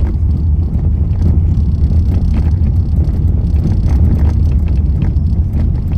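Steady, loud low rumble with a few faint scattered clicks.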